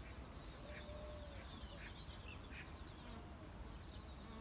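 Faint birds chirping, with a few short buzzes that rise and fall as honeybees fly past the hive entrance.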